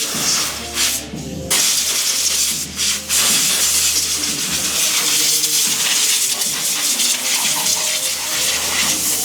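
Water spraying hard in long bursts, cut off briefly about a second in and again near three seconds, over background music.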